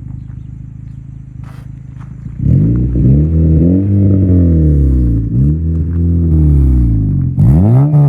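2013 Honda Civic Si's 2.4-litre four-cylinder engine through an Invidia N1 catback exhaust. It runs low and steady at first; about two and a half seconds in it gets much louder as the revs climb and drop several times, with a quick sharp rev near the end.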